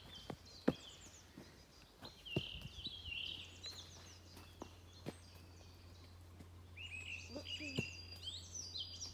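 Songbirds singing in the woods, bursts of quick repeated chirps and trills, busiest about two seconds in and again near the end, with scattered sharp clicks.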